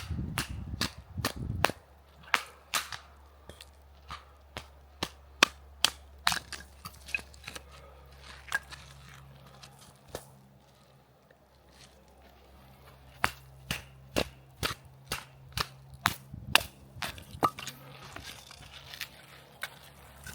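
Wood fire crackling, with sharp, irregular pops and snaps coming about one to three times a second.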